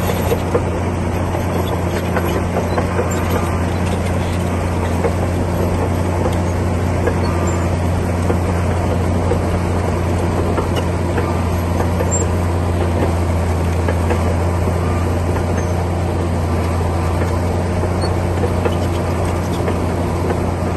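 Komatsu D60P bulldozer's diesel engine running steadily under load with a deep, even hum.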